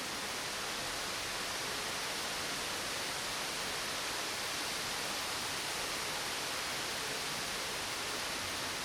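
Steady rain falling, an even hiss with no thunder heard.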